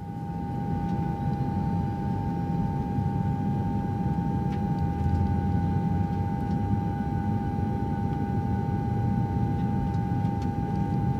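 Cessna 172's four-cylinder Lycoming piston engine running steadily at low power on the ground, a low rumble with a steady high-pitched tone over it.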